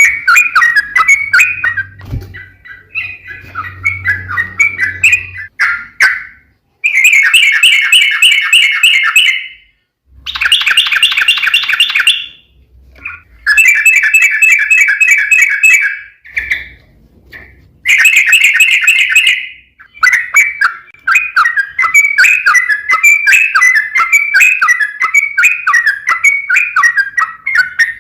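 Sooty-headed bulbul (trucuk) singing long, fast rolling phrases of quickly repeated notes, each lasting about two seconds with short pauses between. In the second half the song runs on without a break as a stream of quick, varied notes.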